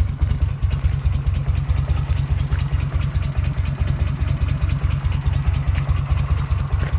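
Harley-Davidson Shovelhead V-twin engine idling with a steady, even low beat. It is ticking over nicely after work on its carburettor.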